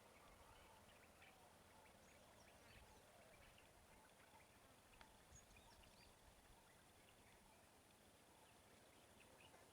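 Near silence: faint outdoor background with scattered faint chirps and ticks.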